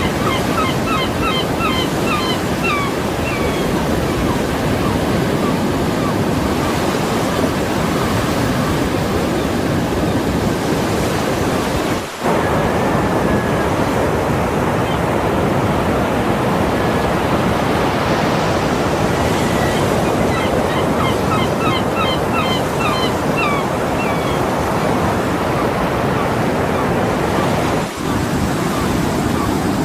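Steady rush of surf and wind. Twice it is joined by a quick run of short, repeated gull calls. The noise dips for a moment twice.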